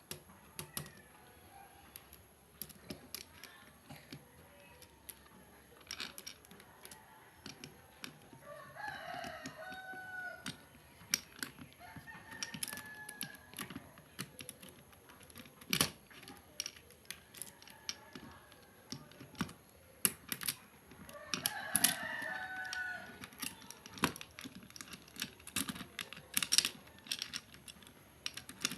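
Irregular light clicks and clinks of the small metal and plastic parts of a mini electric chainsaw being handled as the chain and bar are fitted. A rooster crows a few times in the background.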